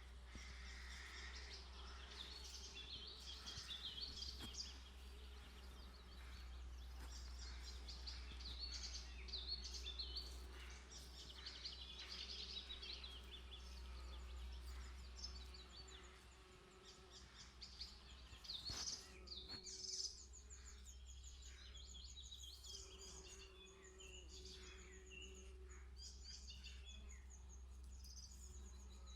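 Faint songbirds chirping and trilling in an overlapping chorus, over a steady low rumble.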